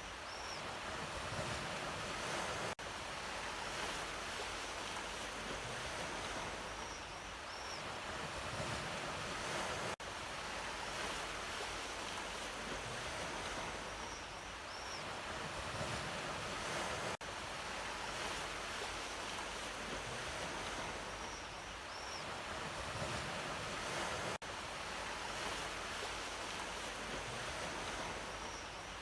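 Sea waves washing ashore: a steady rush that swells and eases. The same stretch of surf repeats about every seven seconds, with a brief drop in sound at each join of the loop.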